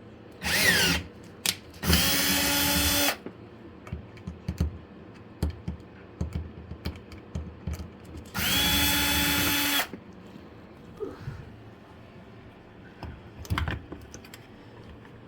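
Cordless power drill running in three short bursts of about a second each, at a steady pitch, with light clicks and knocks of handling between them.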